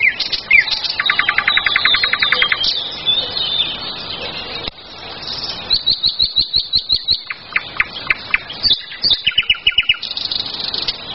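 Several songbirds singing in woodland: high chirps, a rapid buzzy trill, and quick runs of repeated notes, overlapping one another. Around the middle, a series of soft low knocks or rustles runs under the song.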